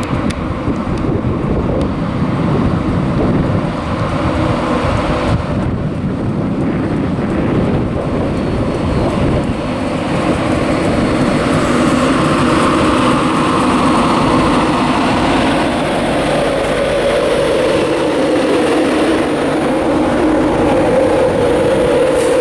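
Train running through a mainline station: a steady rumble, then from about halfway a pitched engine or motor note that slowly falls in pitch.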